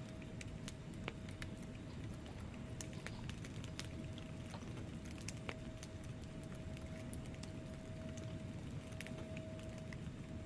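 Wood fire burning in a fireplace: logs crackling with irregular sharp pops over a steady low rush of flame, and a faint steady hum underneath.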